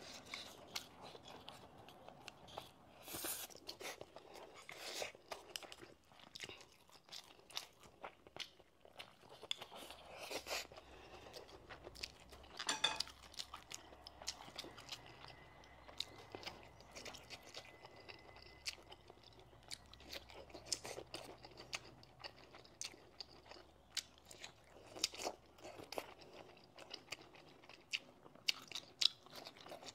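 Close-miked chewing with scattered sharp, crisp crunches as raw green pepper and vegetables are bitten and chewed.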